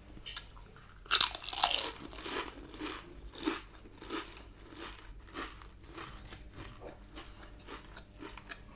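Close-up crunching of a crispy fried wonton being bitten into, loudest in a cluster of crunches about a second in, followed by steady chewing at about two strokes a second.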